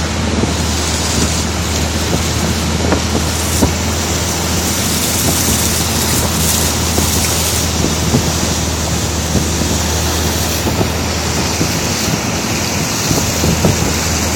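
Boat engine running steadily under way, with a low hum, the rush of water and wind buffeting the microphone.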